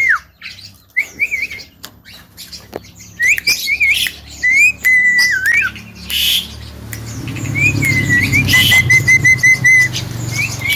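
Javan myna whistling: short rising whistles and warbled notes, then a quick run of about eight even whistled notes near the end, over a low rumble that builds in the second half.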